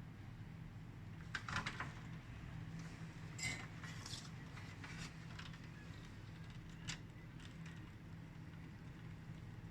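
Scattered light clicks and taps of a new electrolytic capacitor being fitted into a TV power board and the board being handled, over a steady low hum.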